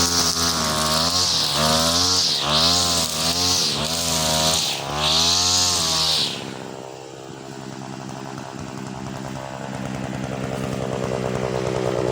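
43cc two-stroke brush cutter with nylon trimmer line, its engine revved in repeated surges with a high whipping hiss. About six seconds in the throttle is let off and the engine drops to a low, steady idle, then speeds up gradually again near the end.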